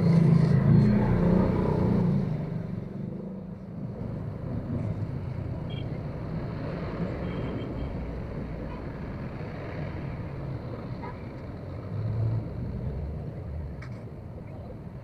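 Motorcycle running, with road and wind noise: a steady rumble that is louder for about the first two seconds, then settles lower and even.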